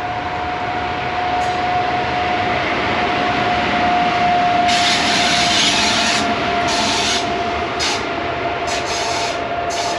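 A train rolling slowly along the rails close by, with a steady whining tone over a rough rubbing, grinding noise. Short hissing bursts come in from about halfway through.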